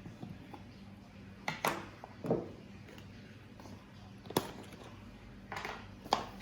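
Household objects being handled and set down: a handful of separate short knocks and clicks with brief rustles between them, over a steady low hum.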